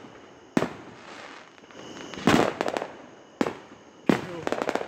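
Fireworks going off overhead: four sharp bangs, about half a second, two seconds, three and a half and four seconds in. The second and last bangs are each followed by a quick crackling string of small reports.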